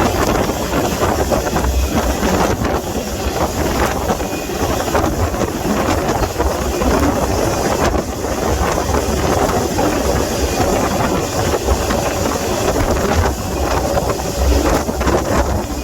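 Freight train rolling, heard from aboard: a steady, loud low rumble and rattle with wind buffeting the microphone.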